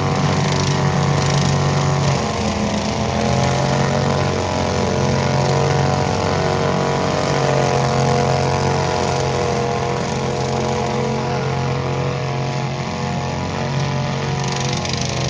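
Tractor engine running steadily throughout, its pitch wavering slightly up and down.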